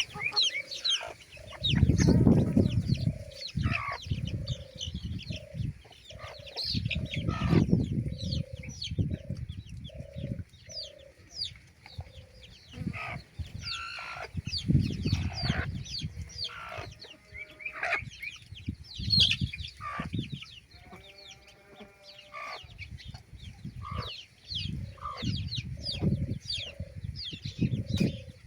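A flock of chickens clucking in short, regular calls, with many high, quick cheeps over them. Several bursts of low rumble come and go, and a single drawn-out call sounds about two-thirds of the way through.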